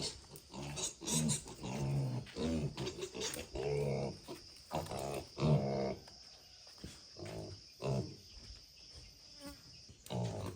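Pigs grunting in short, irregular runs of low pitched calls. A steady high whine runs beneath them and stops near the end.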